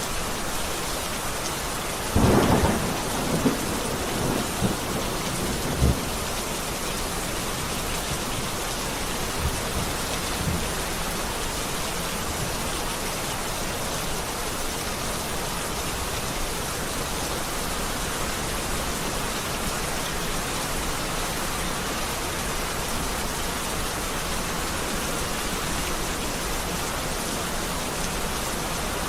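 Heavy rain falling steadily. About two seconds in a loud thunderclap breaks, rumbling on with further cracks until about six seconds in, and a fainter rumble comes near ten seconds.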